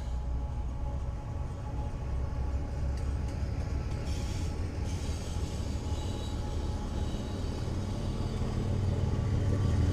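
Train rumbling past, a steady low rumble that grows louder near the end.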